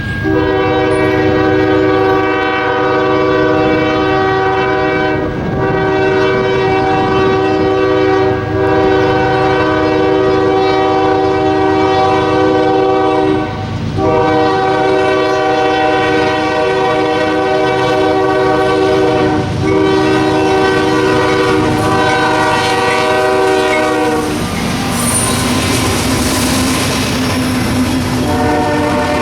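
Diesel locomotive air horn sounding a long string of loud, chord-like blasts with only brief breaks, over the low rumble of a moving train. The horn stops about five seconds before the end, leaving the noise of the passing train and its wheels on the rails, then sounds again just at the end.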